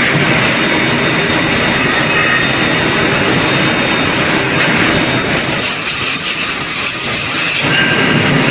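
Loud, steady machinery noise, a continuous rushing roar; the higher hiss drops away abruptly near the end.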